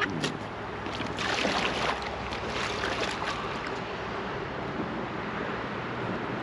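River water flowing and lapping around a drifting raft, a steady rushing wash with a few brief louder splashes in the first few seconds.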